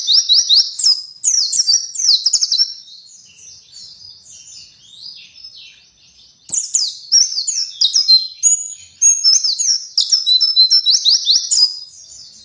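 A white-eye (pleci) singing a fast, high-pitched warbling song of quick downslurred notes. It comes in two loud bursts, one at the start and a longer one from about halfway, with softer twittering between them.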